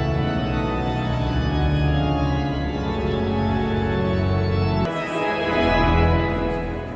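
Cathedral pipe organ playing sustained full chords. About five seconds in, the deep bass notes drop away and a new chord sounds; the level then falls off toward the end.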